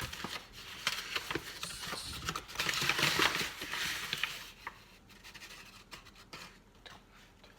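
Flour being handled and scooped with a measuring spoon: rustling and scraping for about four and a half seconds, then a few light clicks.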